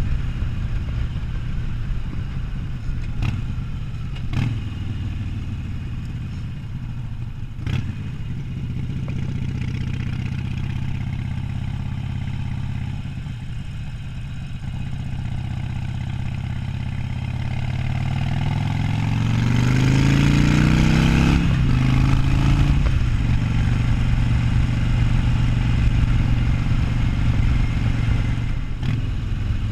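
Harley-Davidson Sportster 1200's air-cooled V-twin engine running under way at a steady cruise, then revving up with a rising pitch about two-thirds of the way through, breaking off briefly at a gear change and pulling on louder and steady in the next gear. A few short knocks are heard early on.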